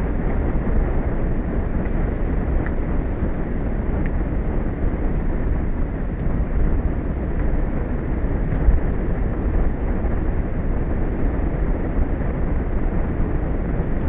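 Steady low rumble of wind buffeting an exposed outdoor microphone, with no breaks or distinct events.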